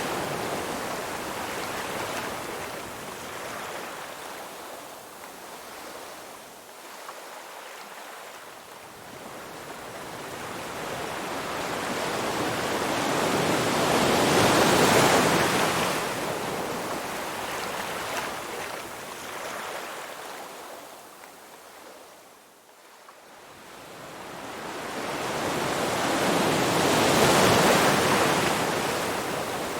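Ocean surf: waves washing in and drawing back in slow swells, loudest about halfway through and again near the end, fading almost away in between.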